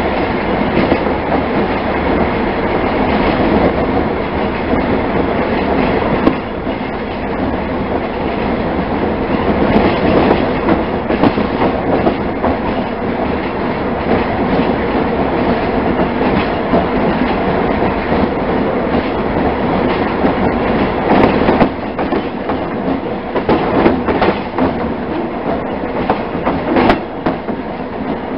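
A train rolling along the track, heard from aboard one of its cars: a loud, steady rumble of wheels on rail, with occasional sharper clicks and knocks.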